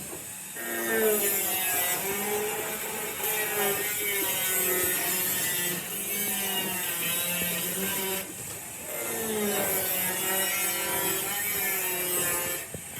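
A handheld power tool running against the work, its pitch wavering as pressure on it changes, in three stretches with brief drops in between.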